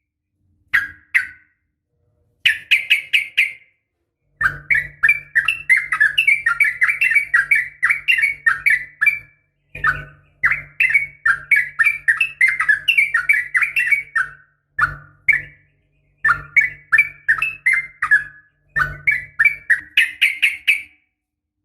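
Yellow-vented bulbul (trucukan) calling: quick runs of chattering, bubbling notes in phrases of one to five seconds, broken by short silent gaps. This is a female's call used as a lure to set male bulbuls singing. A low hum runs under the longer phrases.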